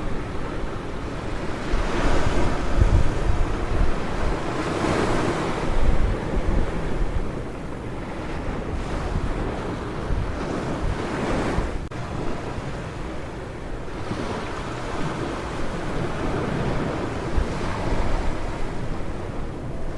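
Ocean surf washing onto a beach, swelling and easing as each wave breaks, with wind rumbling on the microphone.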